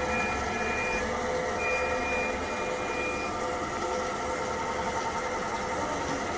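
Steady hum of a kitchen appliance's fan running, with a few held tones and a light hiss over it.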